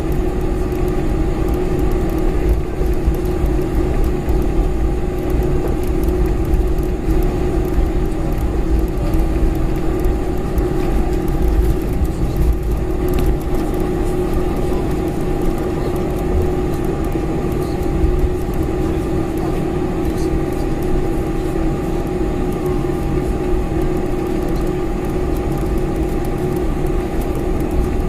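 Boeing 747-400 jet engines heard from inside the passenger cabin: a loud, steady drone with a deep rumble and a few held whining tones.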